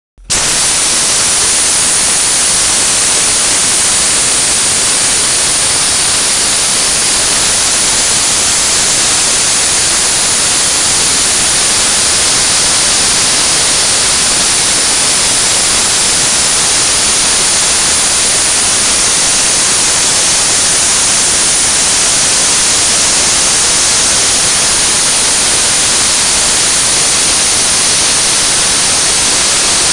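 Dry-ice blasting gun running continuously, a loud, even hiss of compressed air and ice pellets, as it strips paint from an aircraft aileron. It starts abruptly just after the beginning and holds steady.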